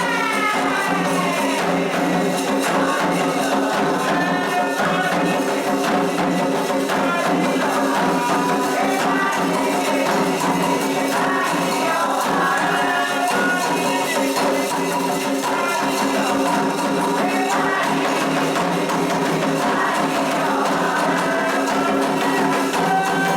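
Candomblé ritual music for Xangô: steady, dense hand percussion with voices singing over it.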